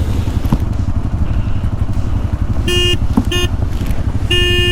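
Motorcycle engine running with a steady low rumble, and a horn sounding three times: two short toots, then a longer honk near the end.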